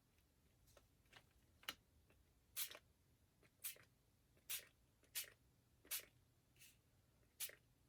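Fine-mist pump spray bottle of Distress Oxide spray being spritzed about nine times in quick succession, short hisses well under a second apart, the first few faint and the later ones louder.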